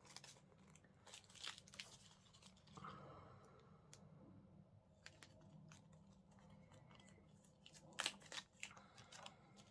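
Faint crinkling and rustling of small plastic drill bags being handled, with a few soft clicks and a short louder cluster near the end.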